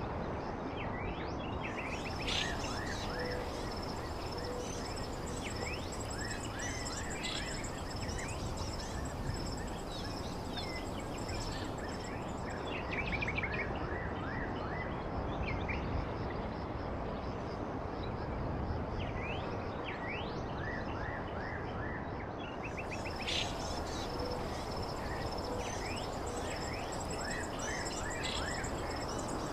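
Many small birds chirping in short quick calls over a steady low rushing background noise. A thin high steady tone runs beneath the chirps for long stretches in the first and last parts.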